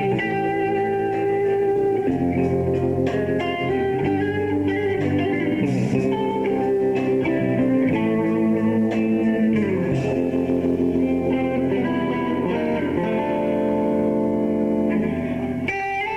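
Live rock band playing an instrumental passage with no singing. A guitar carries the melody in held notes, a few of them bent downward, over bass and drums.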